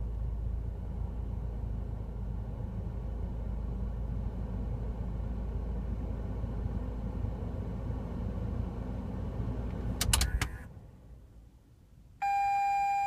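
Car engine idling heard from inside the cabin, then a few sharp clicks about ten seconds in as the ignition key is turned off, and the engine dies away. About a second later a steady electronic beep sounds briefly.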